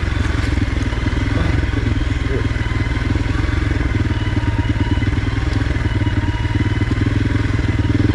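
Honda CRF300L dual-sport motorcycle's single-cylinder four-stroke engine running steadily in first gear as the bike rolls down a rocky gravel trail.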